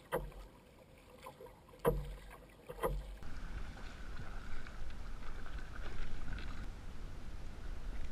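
Three sharp knocks on the kayak, about a second apart, then a steady hiss of wind and water against the hull.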